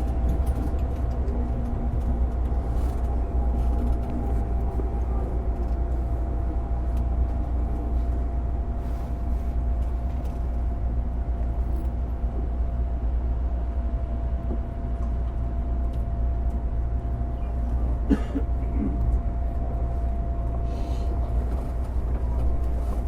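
Running noise of a JR 205-series electric train motor car with MT61 external-fan traction motors: a steady low rumble with a constant hum over it, and a single click about eighteen seconds in.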